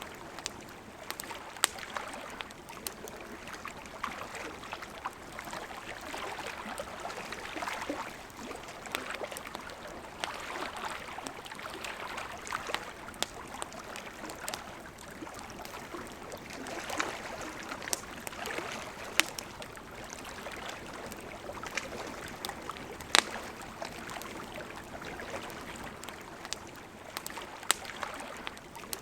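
Campfire wood crackling with irregular sharp pops and snaps, over the steady rush of a flowing river that swells and eases.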